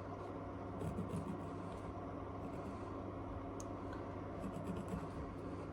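Electric heater humming steadily, with faint scratching strokes of drawing on the painting surface about a second in and again near the end.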